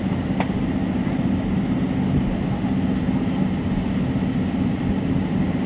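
Steady low hum of cabin noise inside an Airbus A320, with a faint click about half a second in.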